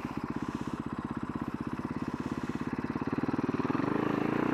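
2011 Husaberg FS570 supermoto's single-cylinder four-stroke engine, heard from on the bike, chugging at low revs with distinct firing pulses. About three and a half seconds in the throttle opens and the revs climb steadily as the bike accelerates.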